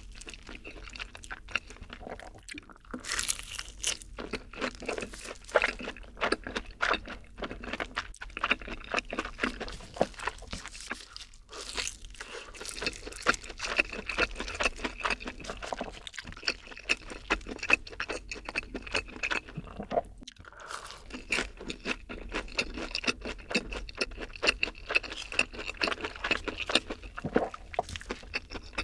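Close-miked chewing of a long breaded, fried cheese stick dipped in cheese sauce: a dense, irregular run of small crunches, with a couple of brief pauses.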